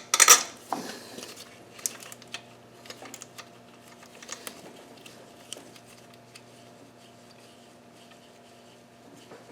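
Hardware being handled during intake manifold fitting: a louder clatter at the start, then scattered light clicks and taps of nuts, washers and bolts that thin out, over a steady low hum.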